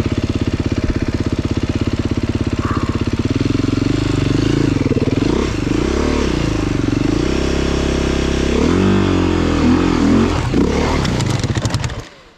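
Off-road dirt bike engine running loud, revving up and down in repeated surges as the rider attacks a steep rocky climb, then cutting out suddenly near the end.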